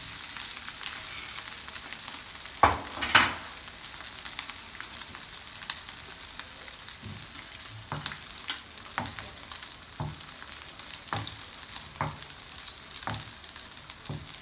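Chapli kabab patty of minced meat shallow-frying in hot oil on low heat, a steady sizzle. Two loud pops come about three seconds in, then a sharp pop roughly every second.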